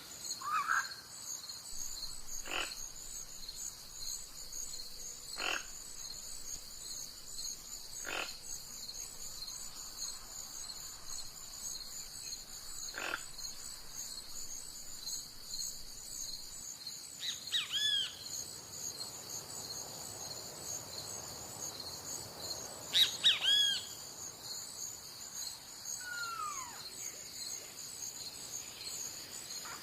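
Steady high-pitched chorus of crickets with occasional bird calls over it: a few short sharp notes, then several falling whistled calls, the loudest about 23 seconds in.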